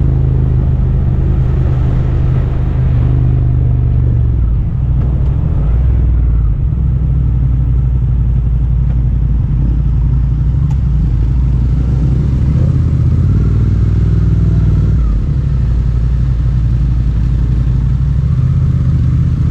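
Suzuki GSX-8S's 776 cc parallel-twin engine running while riding. Its low note steps up and down in pitch several times as throttle and gears change.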